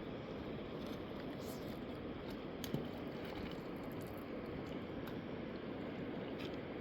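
River water rushing steadily, with a few faint clicks and a single knock near the middle.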